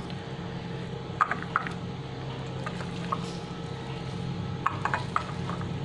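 Chicken pieces being mixed by hand with a dry spice paste in a bowl: soft wet squelching with a few light clicks and taps against the bowl, over a steady low hum.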